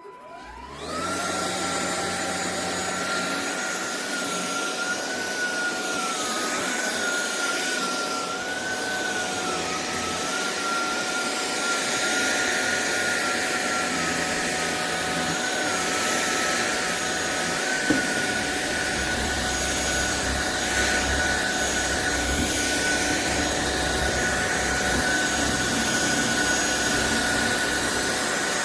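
Cordless stick vacuum cleaner switching on: its motor spins up within the first second to a steady high whine over a rush of air, then keeps running, the pitch wavering slightly for a few seconds. A single sharp click comes about 18 seconds in.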